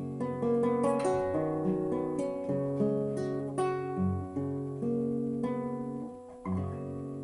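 Solo acoustic guitar playing a slow ballad: plucked notes and strummed chords ringing into one another. About six seconds in the playing breaks briefly, then a chord is struck and left to ring and fade.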